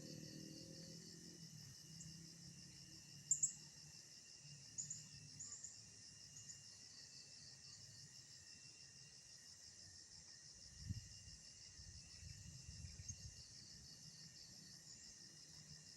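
Faint steady chirring of insects, typical of crickets, with a few short high chirps in the first few seconds. A low dull thump comes about eleven seconds in.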